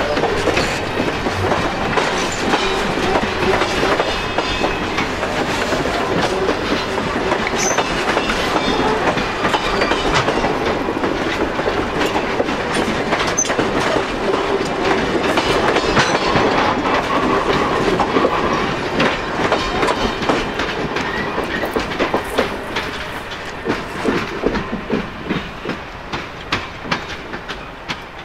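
Canadian Pacific Holiday Train's cars rolling past: a steady rumble of wheels on rail with a quick run of clicks over the rail joints. From about 22 s in the sound fades, breaking into separate clicks as the last cars go by and draw away.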